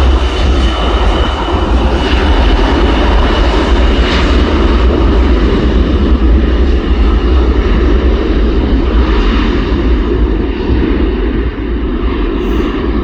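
Aircraft engines running loud and steady, a deep rumble under a thin high whine. The whine and the upper hiss fade gradually as the aircraft moves away.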